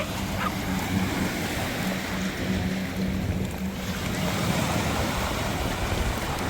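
Waves washing onto a sandy beach, with wind buffeting the microphone and a steady low hum underneath.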